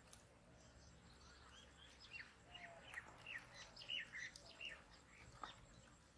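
A bird chirping faintly: a quick run of short, falling notes, starting about two seconds in and lasting about three seconds.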